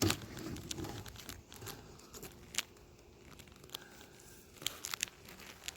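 Scattered light clicks, scrapes and rustling as beehive parts are handled and a tray is pulled out of the hive.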